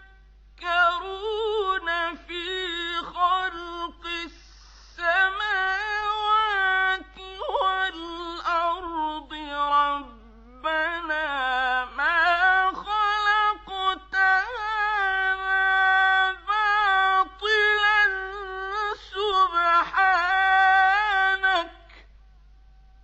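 A male Quran reciter's high chanting voice in the mujawwad tajweed style, drawing out long notes with wavering ornaments. There is a brief breath about four and a half seconds in. The voice stops about 22 seconds in.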